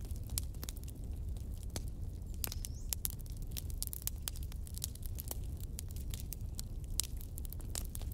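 Wood fire crackling, with frequent sharp pops and snaps at an uneven pace over a steady low rumble of flames. A brief high whistle sounds about two and a half seconds in.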